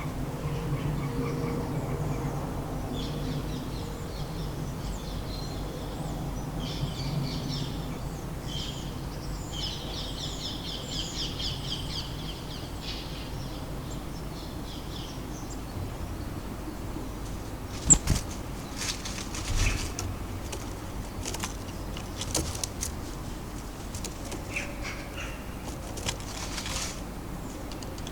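Small garden birds chirping and singing in short high phrases over a low traffic rumble. Later there is a sharp knock, followed by a run of brief flutters and clatters of wings at the feeder.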